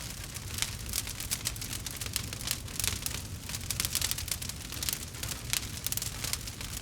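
Fireplace fire crackling: a constant scatter of sharp, irregular pops and snaps over a steady low rumble.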